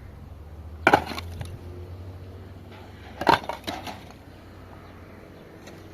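Three sharp knocks or impacts, about two and a half seconds apart.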